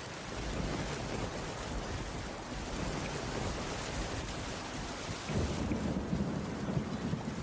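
Steady rain falling on a wooden cabin roof, with a low rumble of thunder that swells about five seconds in.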